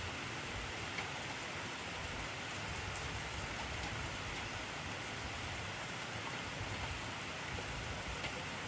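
Intense rain falling steadily on a surface, an even hiss with an occasional single drop tap standing out.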